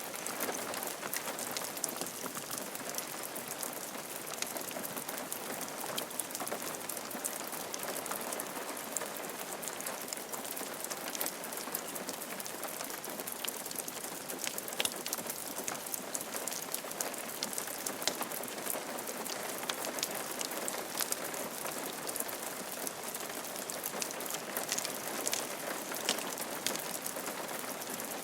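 Steady rain falling on a roof, a continuous patter with many distinct drop taps.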